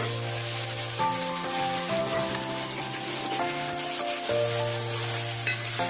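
Onions, tomatoes and green chillies sizzling in oil in a kadai, stirred and scraped with a metal spatula. Background music of held notes that change about once a second plays over it.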